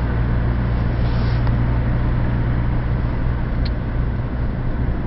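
Car running at road speed, heard from inside the cabin: a steady low engine hum over even road and tyre noise.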